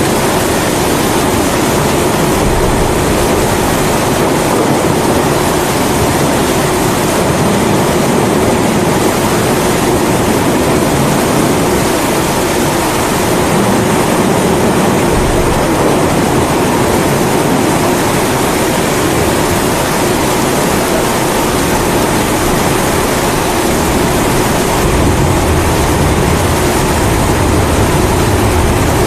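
Pressurized kerosene (Primus-type) stove burner running with a steady rushing hiss, mixed with falling rain. Low rumbles of thunder swell up about halfway through and again near the end.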